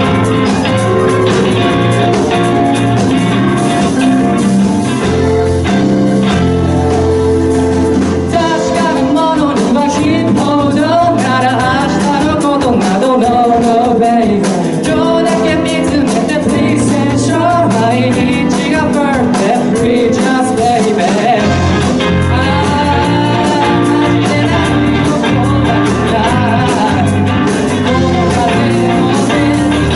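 Live band music: drums, bass, guitar and keyboard playing, with a sung melody over the top.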